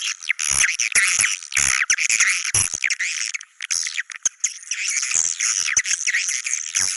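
Swiftlet calls: a dense, continuous high twittering of many birds, with sharp clicks scattered through it.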